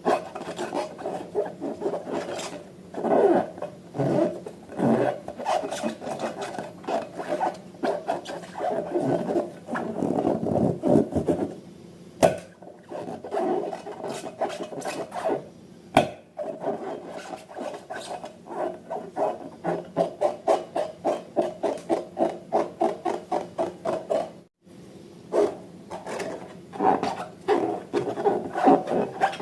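Slime being worked and mixed, a run of quick rubbing, scraping strokes that fall into a fast even rhythm of a few strokes a second partway through. There are two sharp clicks and a brief pause.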